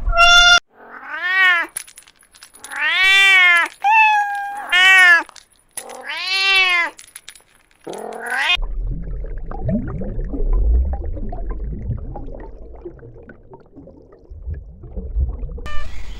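A cat meowing repeatedly: about six separate high, drawn-out meows, each rising and then falling in pitch. About halfway through the calls stop and a low rumbling noise with scattered clicks takes over, and another meow starts near the end.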